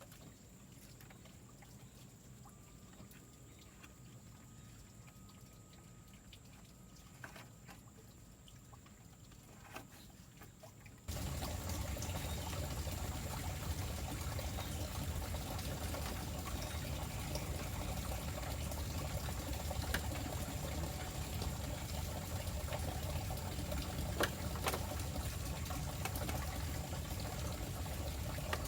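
Faint, quiet ambience with a few light knocks, then, about eleven seconds in, steady running water that starts suddenly, an even pouring and trickling.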